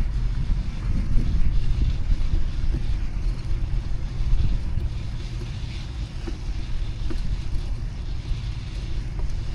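City street traffic heard from a moving bicycle: a steady low rumble of passing motor vehicles.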